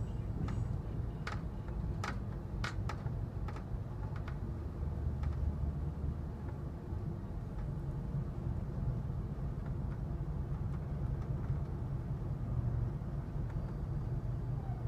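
Steady low rumble of an Amtrak Superliner passenger car rolling along the track, heard from inside the car, with a handful of sharp clicks or creaks in the first five seconds.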